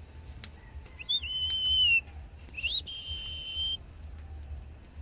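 Indian ringneck parrot whistling two long notes, each sliding up quickly and then held steady at a high pitch for about a second, the first about a second in and the second just after it.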